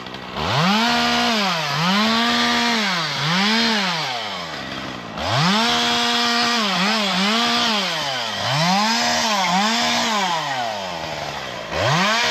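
Small two-stroke chainsaw revved again and again in short bursts, dropping back toward idle between them, as branches are cut off during tree pruning.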